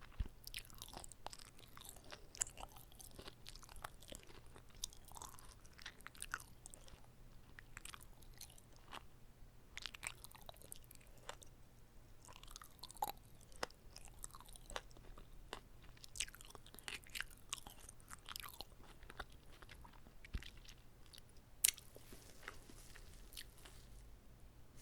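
Close-miked chewing of an uncut gimbap (seaweed-wrapped rice roll): irregular wet mouth clicks and soft crunches as the roll is bitten and chewed, with one sharper click a little after two-thirds of the way through.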